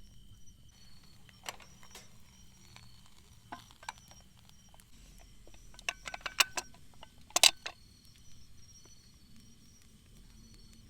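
Scattered sharp clicks and knocks, with a quick cluster of louder ones about six to seven and a half seconds in, over the steady high chirring of insects.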